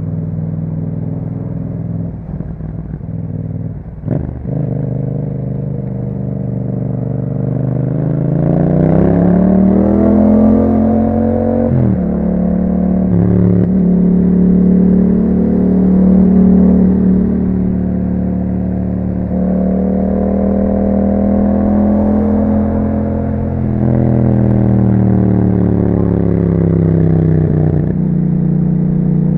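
Yamaha MT-07's 689 cc parallel-twin engine through an Akrapovic exhaust, running under way. The engine note climbs under acceleration, drops suddenly at a gear change about twelve seconds in, then holds steady. Later it rises again and eases back.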